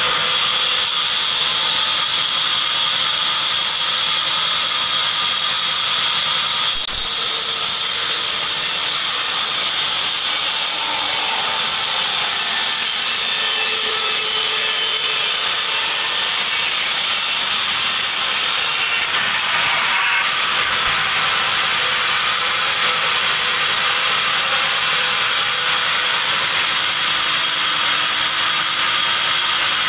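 Band sawmill blade running steadily through a teak log, sawing it into boards, with a dense grinding, rattling machine noise.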